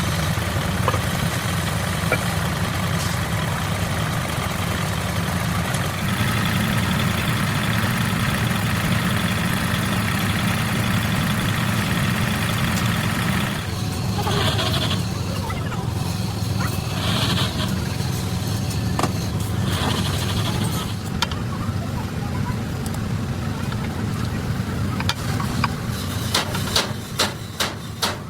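A heavy engine running steadily, with a constant low drone. Sharp clicks and knocks come in near the end.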